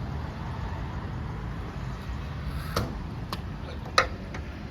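Steady low rumble with three short sharp clicks in the second half, the last about four seconds in and the loudest.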